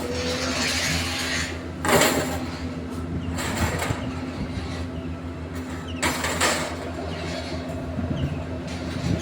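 Steady mechanical hum with two loud noisy bursts, one about two seconds in and one about six seconds in.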